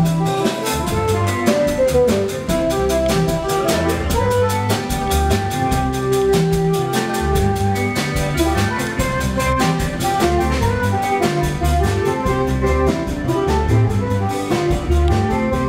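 Live dance band playing: a drum kit keeps a steady beat under a bass line and sustained melodic instrument notes.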